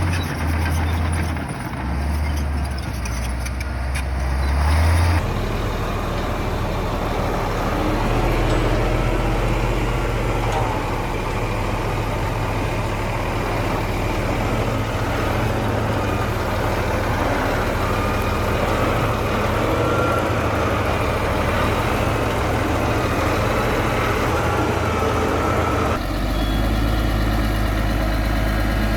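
Large bulldozer's diesel engine running steadily, with the engine sound changing abruptly twice: about five seconds in and near the end.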